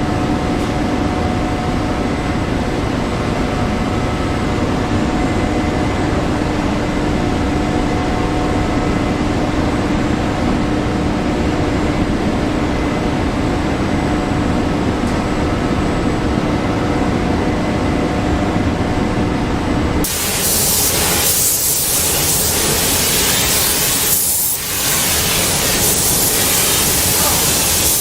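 Steady factory machinery noise with a constant hum, which about two-thirds of the way through switches abruptly to a loud, bright hiss like compressed air or spraying.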